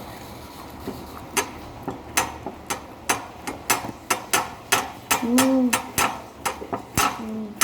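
Eating sounds close to the microphone: irregular sharp clicks and taps, several a second, from utensils on a plate and bites of crispy fried chicken. A short hummed 'mm' rises and falls about halfway through.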